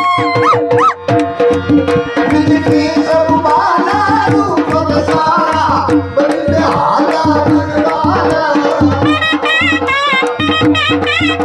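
Gujarati folk music: a sarnai (reed shawm) playing an ornamented melody over a steady dhol rhythm. About nine seconds in, the sarnai holds a note with a fast, wavering trill.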